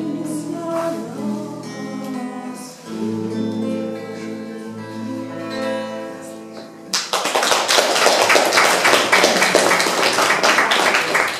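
The closing bars of a song on acoustic guitar, with a last sung note. About seven seconds in, audience applause breaks out loudly and carries on.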